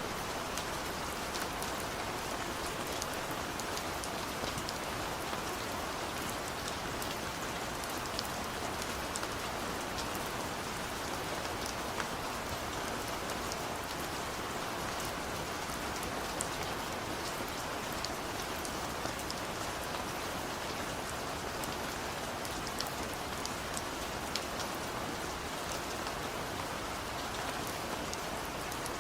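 Heavy, steady rain falling in a forest, with individual drops ticking sharply now and then over the continuous hiss.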